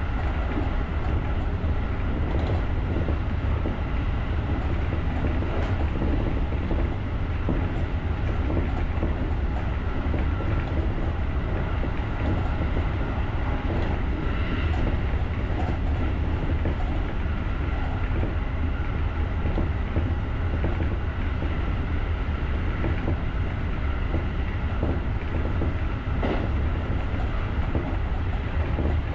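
JR rapid electric commuter train running steadily along the line, heard from the driver's cab: a continuous low rumble with a faint steady whine and a few sharp wheel clicks over the rail joints.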